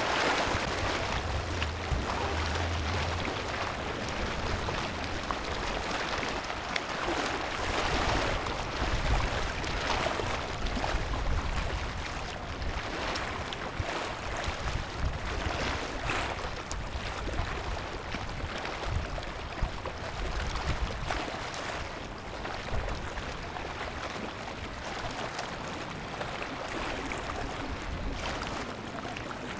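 Waterside wind and water noise: a steady rush of waves on the harbour, with gusts buffeting the microphone in uneven low rumbles that come and go, strongest in the first dozen seconds.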